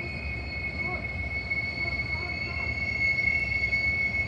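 Freight train wheels squealing in a large rail yard, a steady high-pitched squeal held over a low rumble.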